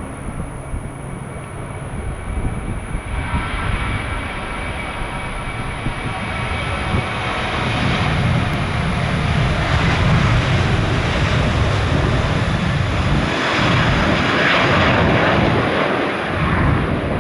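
Jet airliner's engines, a broad rushing noise that swells from about three seconds in and stays loud through the second half.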